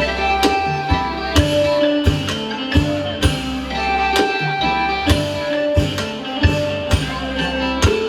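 Isan pong lang folk ensemble playing: a plucked lute melody over a steady drum beat.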